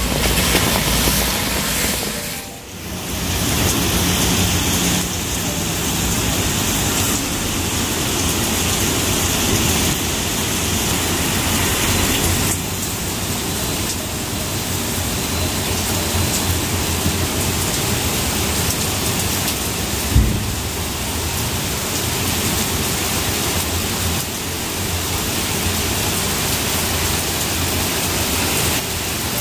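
Steady rain falling, an even hiss with a brief dip about two and a half seconds in and a single short thump about twenty seconds in.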